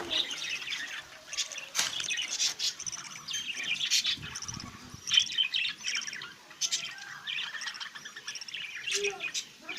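Budgerigars chattering and chirping continuously in a breeding aviary, many birds calling at once, with occasional sharp clicks among the calls.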